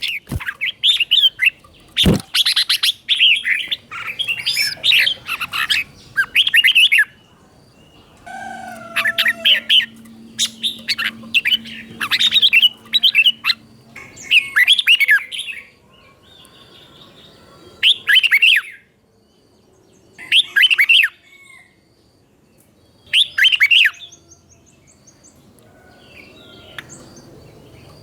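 Red-whiskered bulbul singing short, quick chirping phrases over and over: in close runs for the first half, then one phrase every two to three seconds. A sharp knock sounds about two seconds in.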